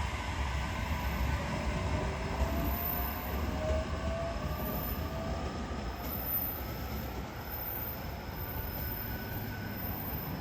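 Electric train running at the station platform: a steady low rumble with a faint whine that rises in pitch over the first several seconds.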